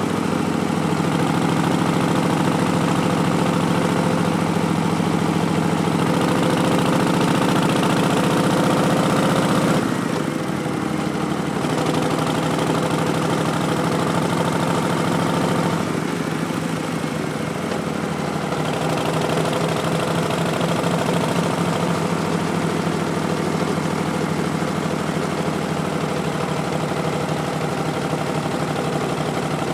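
2019 Harley-Davidson Street Bob's Milwaukee-Eight 107 V-twin running through Vance & Hines Twin Slash slip-on mufflers. The note steps down twice, about a third of the way in and again about halfway through.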